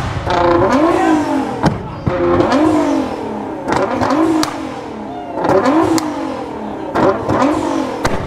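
Car engine revved repeatedly in quick throttle blips, its pitch rising and falling about once a second, with sharp cracks between some of the revs.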